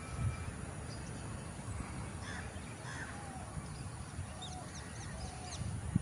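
Faint scattered bird calls, mostly short high chirps with a few lower calls, over a steady low rumble.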